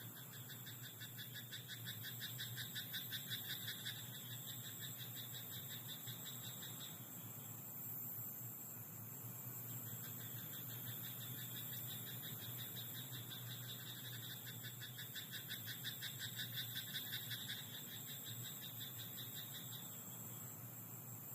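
Frogs in a rice paddy croaking in rapid pulsed trills, in two long bouts with a pause of a few seconds between them, over a steady high hiss.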